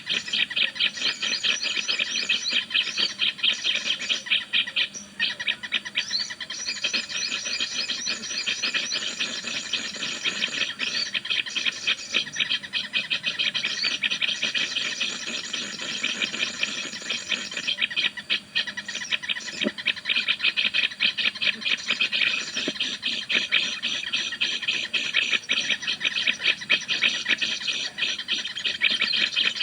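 Small birds chattering continuously in rapid, high, overlapping chirps.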